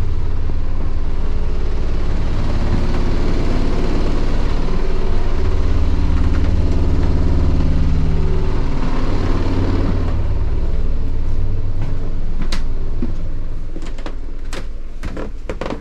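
A motor vehicle's engine running steadily, then fading away over the last few seconds, with a few sharp knocks near the end.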